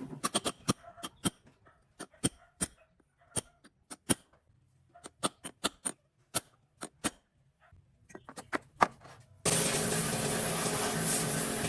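A run of separate sharp clicks and taps, then, about three-quarters of the way through, the restored Chinese D8 diesel engine suddenly running steadily.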